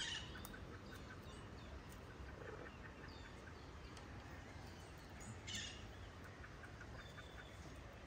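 Faint scattered small bird chirps and tweets, with a brief louder call about five and a half seconds in.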